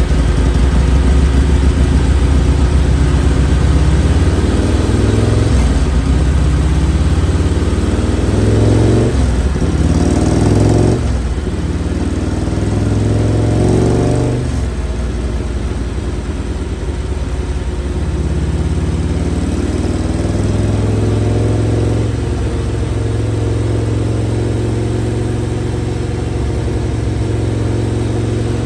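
Harley-Davidson Street Glide's V-twin engine running on a dyno, revving up in rising pulls about five and twelve seconds in, then settling into a steadier run.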